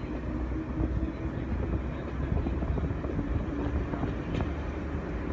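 Class 101 diesel multiple unit under way, heard from inside the carriage: a steady low rumble of its underfloor diesel engines and its wheels on the rails, with a faint steady hum and light scattered clicks.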